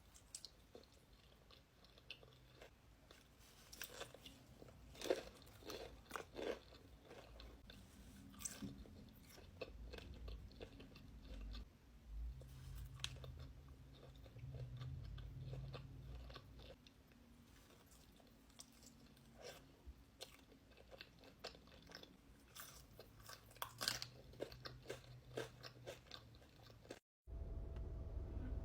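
Close-miked chewing and crunching of food, with scattered sharp crunches and mouth clicks. Near the end it cuts off abruptly to a steady low hum.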